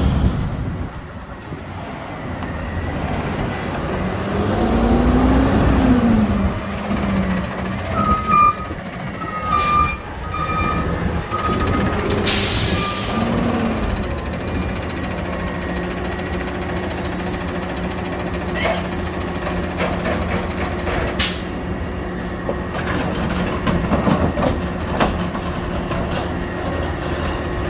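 Garbage truck's diesel engine revving up and back down, then about five short high beeps from its reversing alarm. A sharp air-brake hiss follows, another comes later, and then the engine runs steadily with a low hum.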